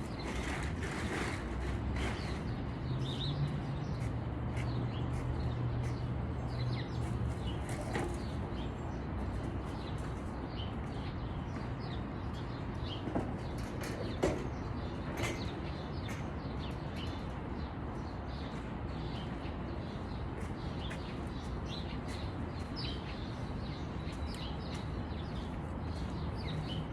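Outdoor ambience: small birds chirping now and then over a steady background, with a low hum in the first several seconds that fades away.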